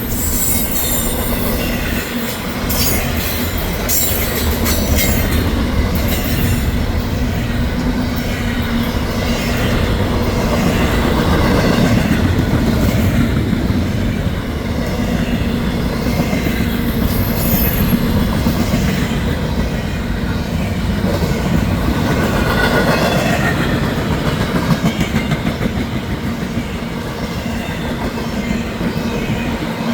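Freight train of flatcars carrying highway trailers rolling past, its steel wheels rumbling and clicking steadily on the rails. Brief high wheel squeals come in near the start and again a couple of times later on.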